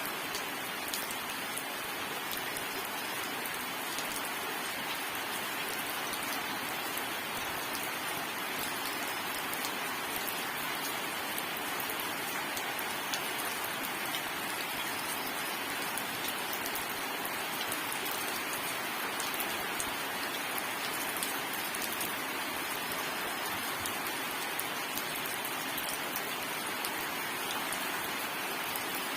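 Steady rain falling and pattering on a surface, an even hiss dotted with many small drop ticks, with no thunder.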